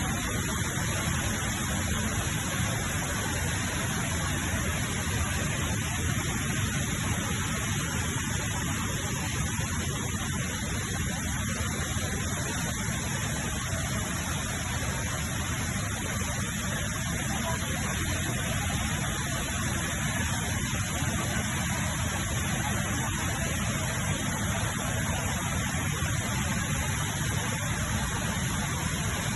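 Steady rush of falling water from the Rain Vortex, the indoor waterfall at Jewel Changi Airport.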